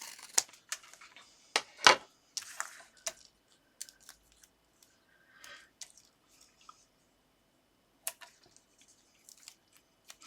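Small paper-craft handling noises as double-sided foam pads are peeled from their backing and pressed onto a paper topper: scattered rustles, taps and clicks, busiest in the first three seconds, then sparse with a single sharp tap about eight seconds in.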